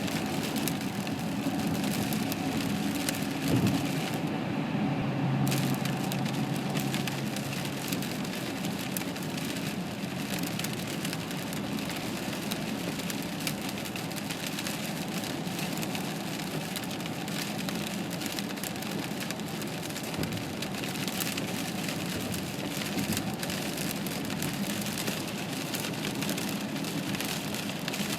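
Steady vehicle and road noise: a continuous hiss over a low hum, with a short louder knock about three and a half seconds in.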